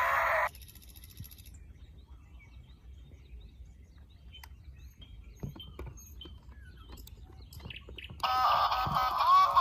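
Quiet outdoor ambience with faint bird chirps and a few light clicks. Loud music cuts off about half a second in and starts again near the end.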